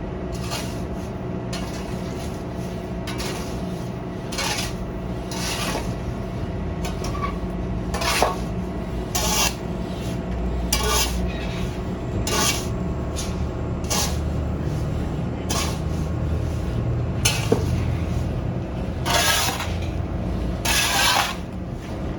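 Repeated scraping or rasping strokes, roughly one a second and uneven, over a steady low machine hum.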